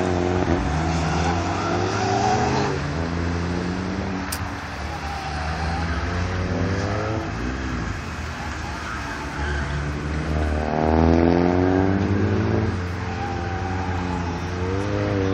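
Turbocharged Chevrolet Cobalt SS running an autocross course, its engine rising and falling in pitch again and again as it accelerates and lifts between the cones. The longest, loudest climb comes about ten seconds in.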